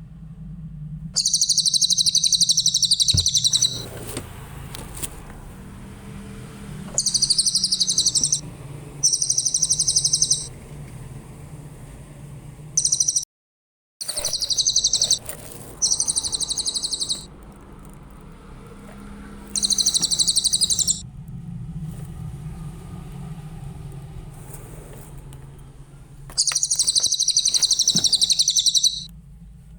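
A cililin songbird singing: repeated bursts of a fast, high-pitched trilling song, each one to three seconds long with short pauses between, over a steady low hum. The sound cuts out completely for a moment about halfway through.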